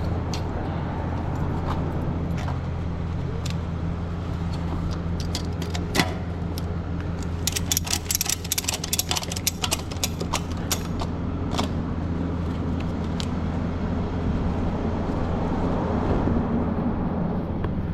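Tow truck's engine running steadily at a low, even hum, with a quick run of sharp metallic clicks and rattles in the middle and a single knock just before it.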